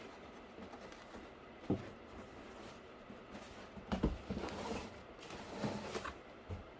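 Cardboard pieces being handled: a sharp knock, then a louder cluster of knocks and scraping rustle around the middle, and one more small knock near the end.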